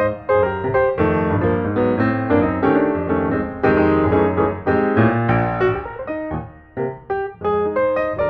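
Background piano music: a run of struck notes with chords beneath, briefly thinning out about two-thirds of the way through.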